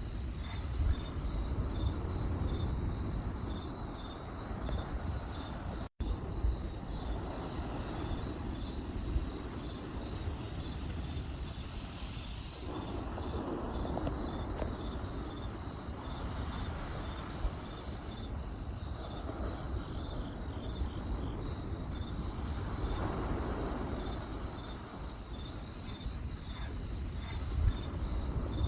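Campfire burning with a low rumble and occasional sharp crackles and pops, under crickets chirping steadily at a high pitch. The sound cuts out completely for an instant about six seconds in.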